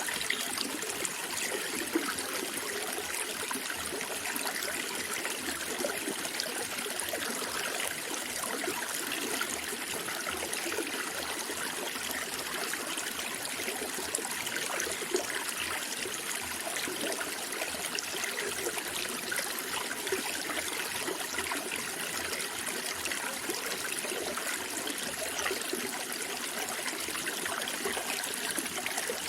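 Small stream of water running and trickling steadily, a continuous bubbling rush with no pauses.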